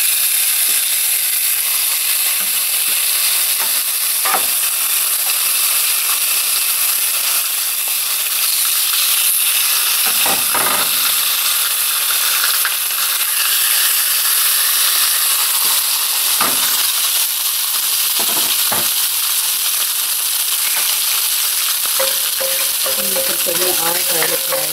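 Marinated chicken breast sizzling steadily on a hot ridged stovetop grill pan, with a few sharp clicks of metal tongs as more pieces are laid down. Near the end a wooden spatula scrapes and stirs in the frying pan beside it.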